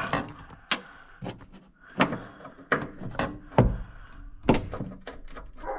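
A door knocking and rattling about eight times at uneven intervals: a dog pawing at it to be let back in.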